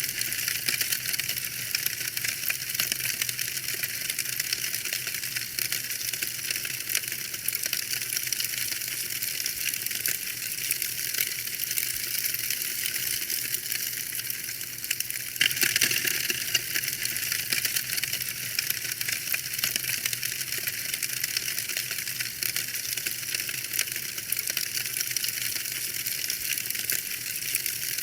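Fire burning in a fireplace, crackling steadily with a dense stream of small pops over a soft hiss. A flurry of louder pops comes about halfway through.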